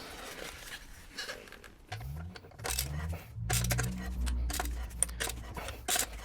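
Scattered light clicks and metallic knocks from hand work on the car, with a low hum that changes pitch in small steps from about two seconds in and stops abruptly at the end.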